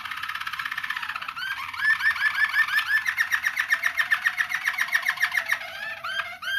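Young roller canary song: a continuous flow of fast repeated notes, with a run of rising slurred notes and then, from about three seconds in, a quicker roll over a low steady tone. These are young birds voicing new song passages (tours).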